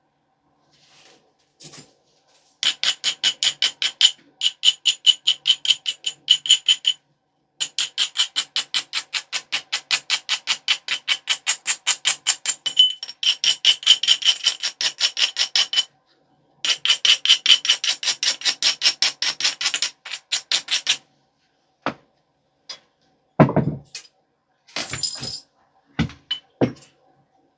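Edge of a stone biface being abraded: rapid, even back-and-forth rubbing strokes, about four to five a second with a slight ringing, in several long runs. A few separate sharp knocks of stone on stone near the end.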